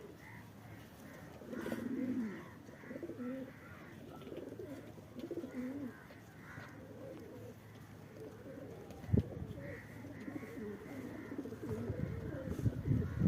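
Domestic pigeons cooing repeatedly in overlapping low, wavering calls, with a few higher chirps. One sharp knock sounds about nine seconds in.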